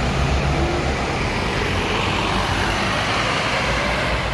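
Scania K230UB city bus running: steady engine rumble under road and tyre hiss, with a faint whine rising in pitch over the second half.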